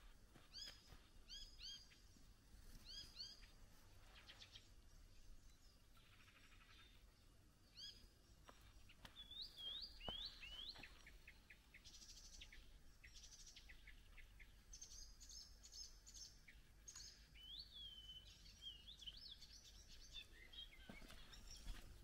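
Faint songbirds singing: short, high chirping phrases repeated again and again, with a quick run of ticking notes about halfway through.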